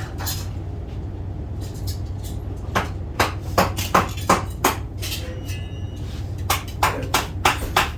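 Hammer driving nails into wooden door trim: two runs of quick blows, about six strikes each, with a pause between.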